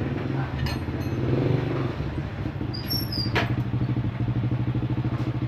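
An engine running steadily with a fast, even pulse, starting right at the beginning, and a sharp metallic click about three seconds in.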